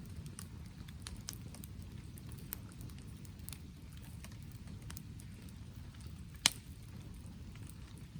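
Wood campfire crackling with scattered small pops over a steady low hiss, with rain pattering; one sharp, loud pop about six and a half seconds in.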